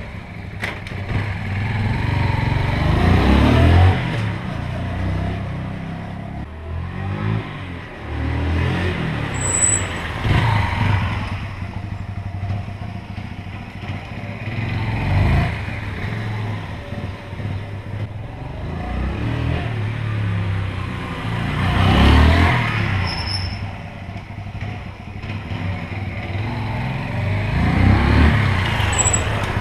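Yamaha XT125X's single-cylinder four-stroke engine and exhaust under way, repeatedly revving up as it accelerates and dropping in pitch at each gear change.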